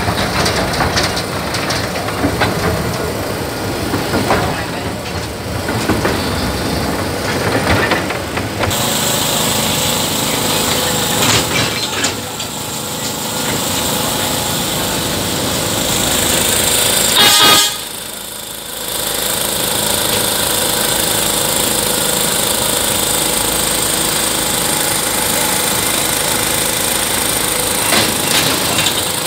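Rail vehicle in motion, heard from an open wagon behind a small locomotive: wheels clattering on the track and the locomotive running, with its horn sounding. A short loud blast comes a little past halfway.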